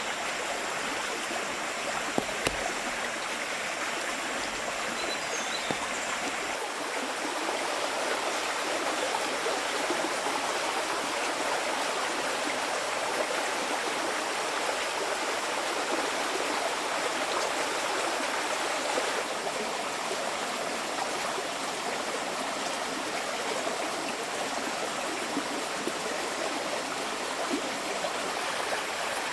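Flowing stream: a steady, even rush of running water that keeps on without a break, with a couple of faint clicks about two seconds in.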